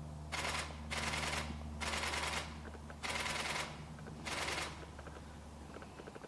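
Camera shutter firing in five short bursts of rapid continuous shooting, over a steady low hum.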